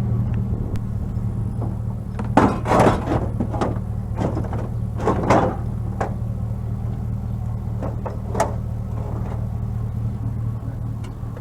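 A vehicle engine running steadily at idle, with several knocks and clatters over it: a cluster a couple of seconds in, another around the middle, and a single sharp one later.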